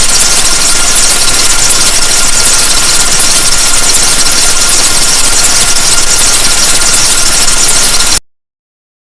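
Very loud, harsh electronic static noise, brightest in the highs, with a faint steady high tone running through it; it cuts off suddenly about eight seconds in.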